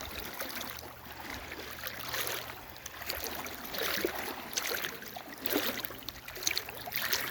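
River water rushing and splashing in uneven surges, with a faint steady low hum underneath during the first few seconds.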